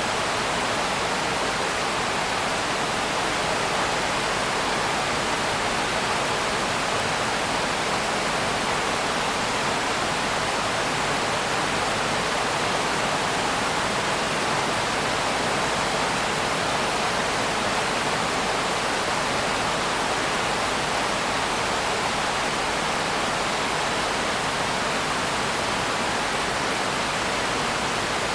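Steady rain, a constant even hiss with no single drops or strikes standing out.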